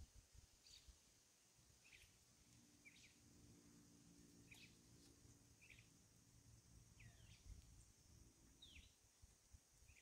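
Faint bird chirps: short, high calls about once a second, some falling in pitch, over quiet outdoor background.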